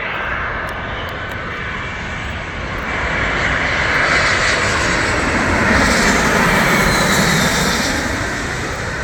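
Airbus A321 twin-engine jetliner passing low on final approach to land. The jet noise swells over the first few seconds, peaks in the middle with a faint falling whine, then fades as it goes by.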